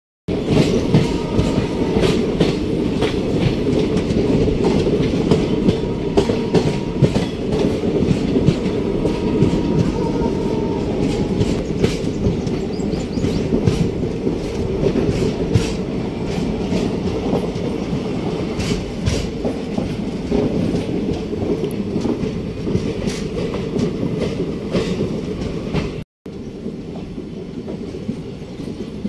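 ICF passenger coach rolling along the track at speed: a steady rumble with the wheels clicking over rail joints, heard from the open doorway.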